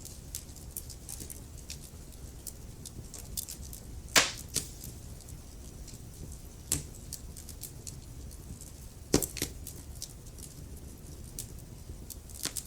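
Wood fire crackling in a fireplace: a steady low rumble of flames with scattered small crackles and a few sharp pops, the loudest about four seconds in.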